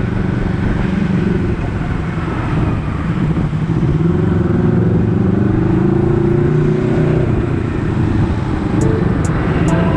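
Honda CBR250RR parallel-twin engine running on the move, its revs rising and easing through the gears. A few short high clicks come in near the end.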